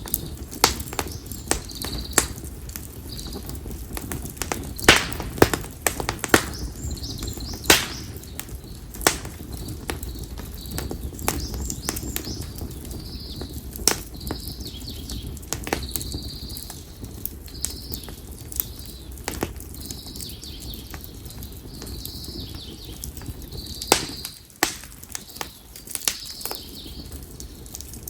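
Konara oak firewood burning in a bonfire, crackling with frequent sharp pops over a steady low background. A bird calls repeatedly in short high chirps, every second or two.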